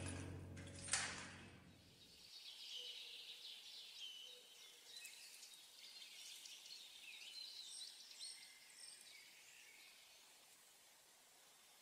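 Faint birdsong: small birds chirping with short rising and falling calls over a soft background hiss. Soft instrumental music, with one struck note about a second in, fades out in the first two seconds.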